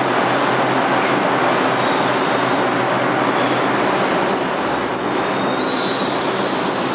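R62 subway train running along the station platform with a steady loud rumble, its steel wheels squealing in thin high tones from about two seconds in until near the end.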